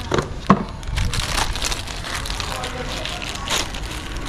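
Hard plastic parts of a motorcycle speedometer assembly clicking, scraping and crackling as they are handled and worked apart. A sharp click comes about half a second in.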